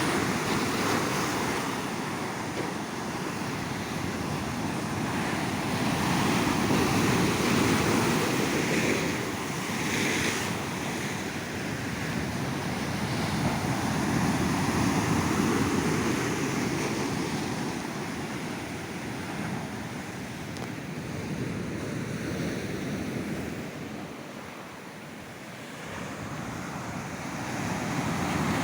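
Ocean surf washing onto a beach, waves swelling and receding in slow surges every few seconds, with some wind on the microphone.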